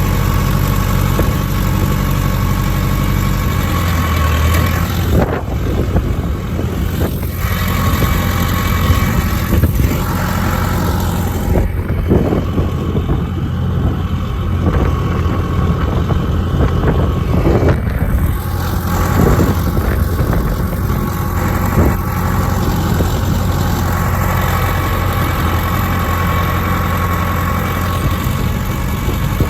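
Truck engine running steadily at idle, a low steady drone with a few light knocks now and then.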